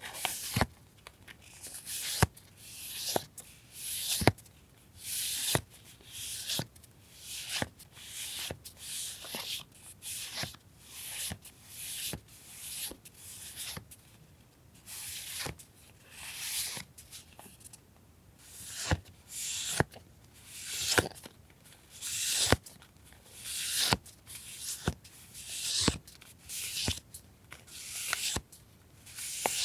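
Paper being handled: repeated rustling and crinkling of paper sheets and packaging, about one swish a second, with sharp taps in between.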